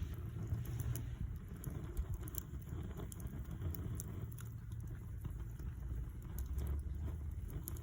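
Wood campfire crackling, with scattered sharp pops at irregular moments over a steady low rumble.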